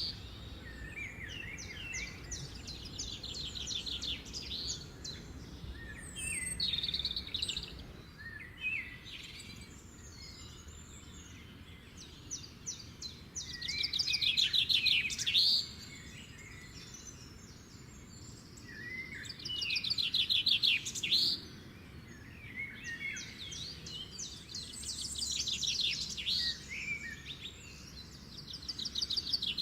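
Small songbirds chirping and singing, with several fast trilled phrases that rise and fall in loudness.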